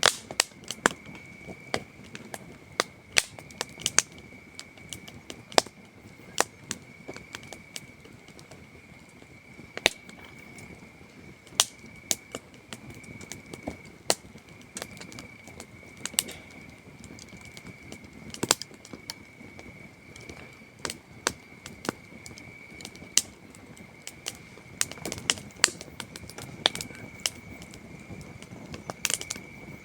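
Wood campfire crackling with sharp, irregular pops, a little thicker near the end, over the steady high trill of night crickets.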